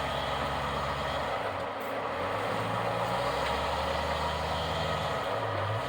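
Off-road vehicle engine running at low speed, its pitch stepping up and down a few times as the driver works the throttle.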